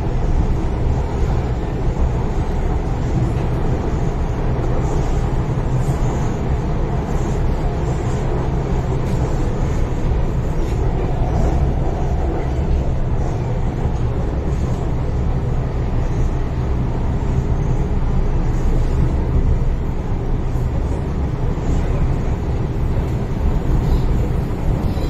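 Inside the passenger car of an MTR Island Line M-Train (a Metro-Cammell electric multiple unit) running along the line at speed: steady running noise of wheels on rail and traction equipment, heavy in the low end.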